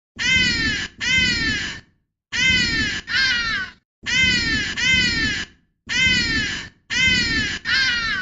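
An ibis gives loud, harsh calls that fall in pitch, mostly in close pairs: about nine calls in all, each lasting under a second.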